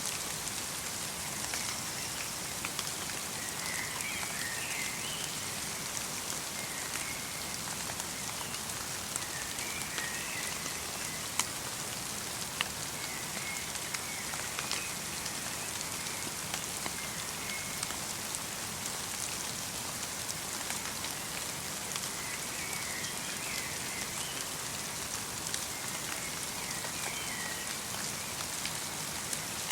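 Light rain falling steadily in a winter forest, with the sharp ticks of single drops here and there. Faint short bird chirps come every few seconds.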